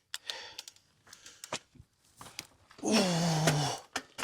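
A cyclist's heavy breathing between scattered sharp clicks, straining to get the bike moving, then a long drawn-out "oh" near the end.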